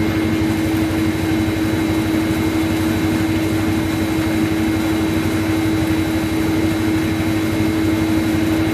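Steady machine hum: a constant low drone with a couple of fainter high tones over an even rushing noise, unchanging throughout.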